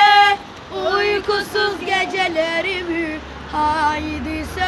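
A child singing a Turkish song solo, a slow melody of long held notes with vibrato, phrase after phrase with short breaths between.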